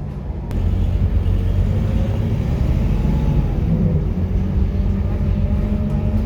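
Diesel engine of a Scania K230UB single-deck city bus running with a steady low drone. It gets louder just under a second in, and its pitch shifts slightly around four seconds in.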